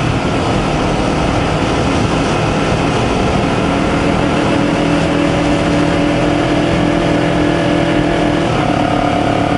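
2020 Honda CBR250RR's parallel-twin engine running at a steady speed under heavy wind rush. The engine note shifts about eight and a half seconds in.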